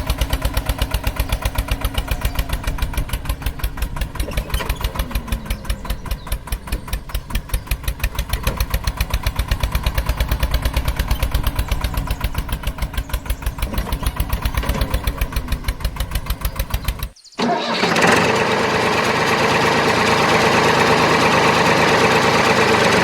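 A small engine chugging with a rapid, even beat, typical of a miniature tractor's motor. About 17 seconds in it cuts off abruptly and a louder, denser steady sound takes over.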